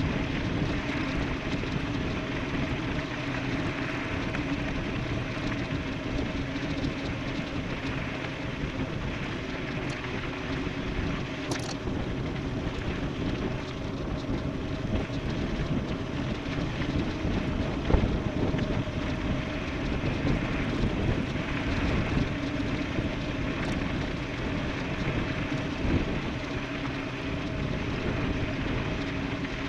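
Wind rushing over the microphone and tyre rumble from an e-bike riding fast downhill, with a steady hum underneath. A sharp knock sounds about 18 seconds in.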